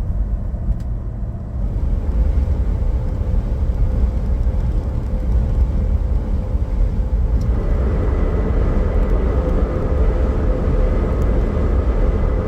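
Jeep Gladiator on 37-inch tyres driving on the road: a steady low rumble of tyres and drivetrain. A steady whine joins it about seven and a half seconds in.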